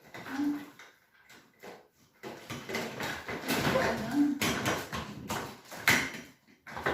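Plastic vacuum cleaner parts being handled and pushed together: an irregular clatter of knocks that starts sparse and turns busy after about two seconds, with one sharp knock near the end. It is the sound of trying to click an attachment into place.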